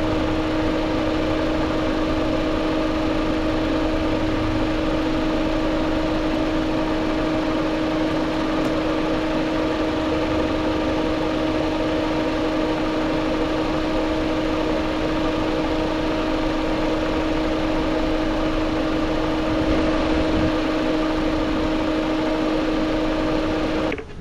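Car engine idling steadily, with a constant whine over the hum, cutting off suddenly near the end.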